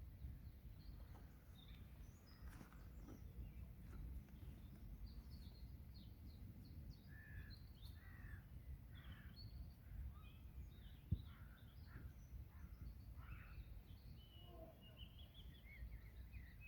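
Birds calling faintly in scattered short notes over a steady low outdoor rumble, with one sharp click about eleven seconds in.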